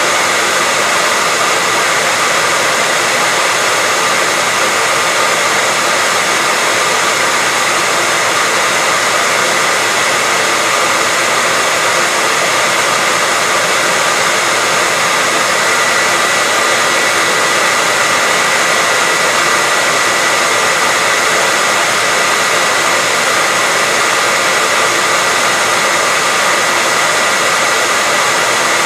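Hairdryer running steadily without a break: a constant rush of air with a steady high whine from the motor and fan.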